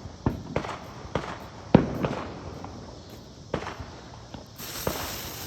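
Scattered firecracker pops at irregular spacing, the loudest a little under two seconds in. Near the end a steady hiss starts up, a lit smoke grenade spewing smoke.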